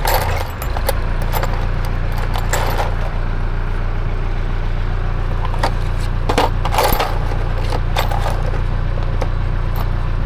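Screws and small metal parts clinking and rattling as they are picked through by hand, in scattered sharp clicks. A steady low drone runs underneath.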